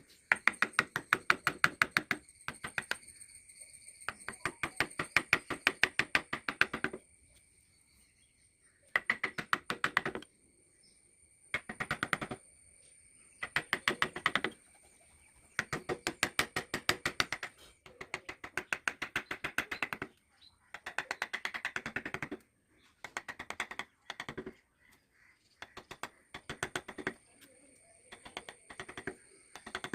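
Rapid tapping on wood during carving, about a dozen sharp taps a second in bursts of one to three seconds with short pauses between. A faint steady high whine sits underneath.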